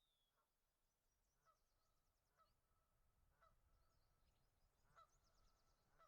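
Very faint, repeated short honking bird calls, roughly one a second, with faint high, rapid chirping trills in between.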